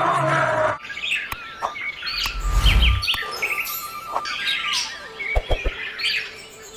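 Birds chirping with many short, quick calls that fall in pitch, after a different sound cuts off in the first second. A brief low rumble comes under the chirps a little past two seconds in.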